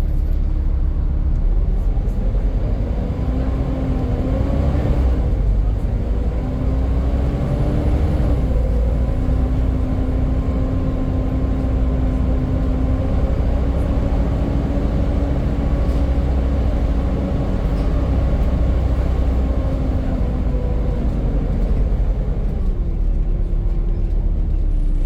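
Volvo B7 Gemini double-decker bus under way, its engine rumbling with a loud hoover-like whine. The whine climbs in pitch about two seconds in, holds steady for most of the stretch, then drops near the end as the bus eases off.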